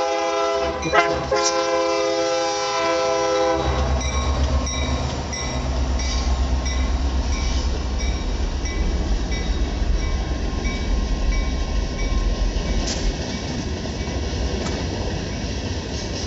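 Locomotive horn sounding a long blast with a brief break about a second in, stopping a few seconds in. Then the train passes close by with a deep, steady rumble of engine and wheels on the rails.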